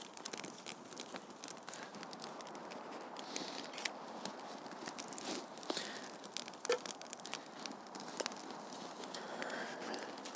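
Thin dry deadwood twigs being laid onto a fire: a light rustling with many small scattered snaps and crackles.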